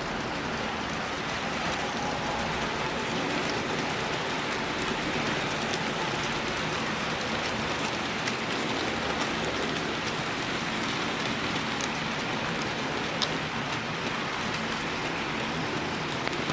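HO-scale model freight train rolling along the layout track: a steady rushing rumble of many metal wheels on rail, with a few sharp clicks from wheels crossing rail joints.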